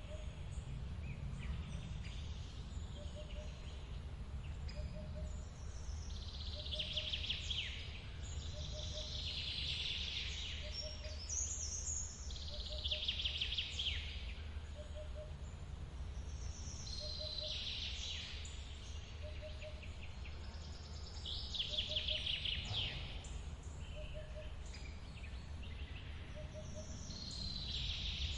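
Steady low rush of a forest waterfall, with a bird repeating a high, rapid trilled song every three to four seconds and a soft short note repeating about every second and a half.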